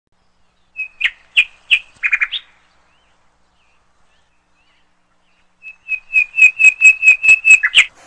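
Bird song: two phrases of short, sharp chirps on one high pitch. The first is a handful of notes about a second in. The second is a faster run of about a dozen notes, some five a second, starting a little after the middle and ending in a quick flourish.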